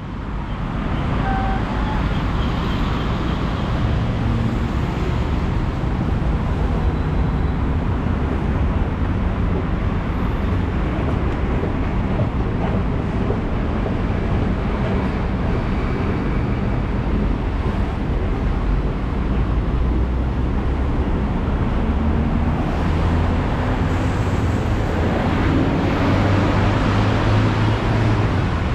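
Bangkok BTS Skytrain car running, heard from inside the carriage: a steady low rumble with a hiss of running noise.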